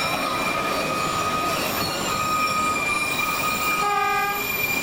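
Tourist train running through a curve, its wheel flanges squealing in steady high tones over the rumble of the cars. About four seconds in, a brief blast of the diesel locomotive's horn.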